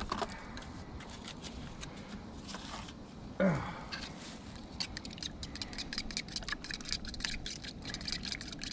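Fried rice crackling and popping in a hot pan, the crackle growing thicker about four and a half seconds in, with some handling of an egg carton early on and a short grunt about three and a half seconds in.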